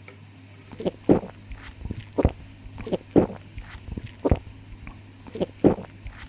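Close-up eating sounds: a person chewing a mouthful of food with short, wet mouth smacks, about a dozen in irregular succession, over a steady low hum.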